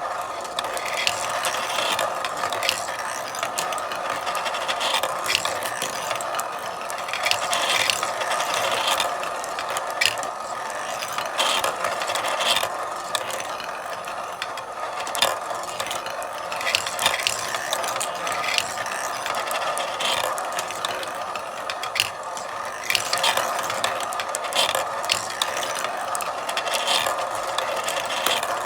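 Marbles running through a marble run: a continuous rolling rattle along the tracks, with frequent irregular clicks and clacks as marbles strike track parts and each other.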